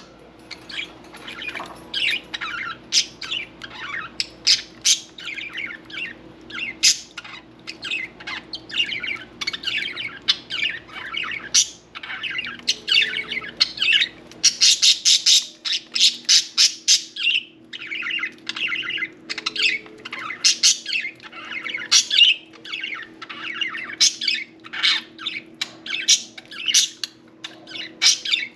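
Several budgerigars chattering and warbling, a dense, unbroken run of quick chirps and squawks, over a faint steady low hum.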